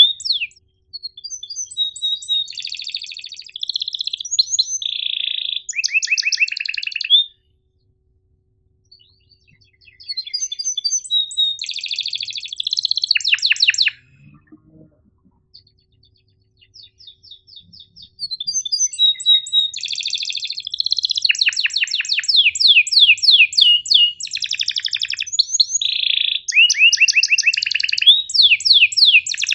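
Domestic canary singing in phrases of rapid chirps and fast rolling trills. There are two short pauses, a few seconds apart, around the middle.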